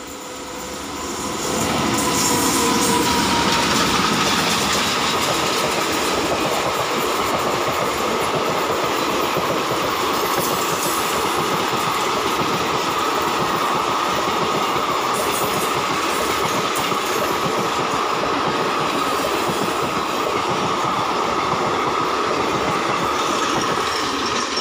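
Express passenger train hauled by a WAP7 electric and WDG3A diesel locomotive pair passing close by at speed. The noise builds quickly over the first two seconds as the locomotives go by, then holds as a steady loud rush of wheels on rail with clickety-clack from the coaches, falling away sharply at the very end as the last coach clears.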